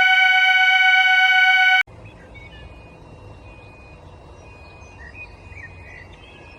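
A loud, steady electronic fire alarm sounder tone cuts off abruptly about two seconds in. Behind it are a low rumble and scattered bird chirps.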